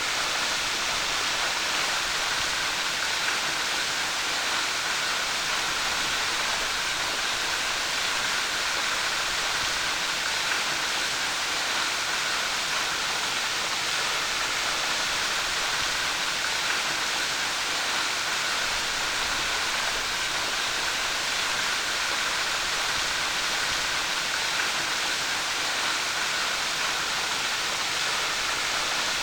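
Waterfall: water pouring down and splashing into its pool, a steady rushing hiss that does not change.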